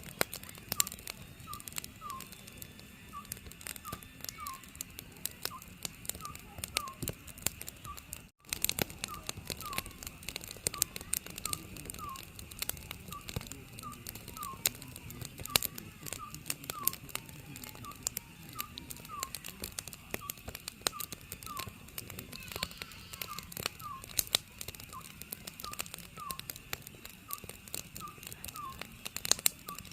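Oriental scops owl calling, a short whistled note repeated evenly, more than once a second. Under it, a wood fire crackles with many sharp pops over a low hiss.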